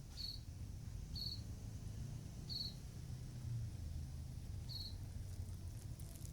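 Four short, high-pitched trilling chirps, spaced irregularly about a second or two apart, over a low rumble.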